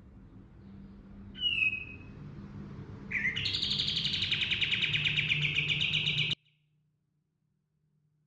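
Kapas tembak (katem) songbird: one short whistled note about a second in, then a fast rolling trill of rapid notes for about three seconds that cuts off suddenly.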